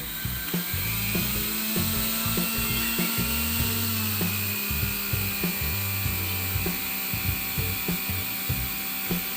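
Juicer-blender's electric motor running with a steady whine that shifts in pitch slightly about halfway through, under background music with a regular beat.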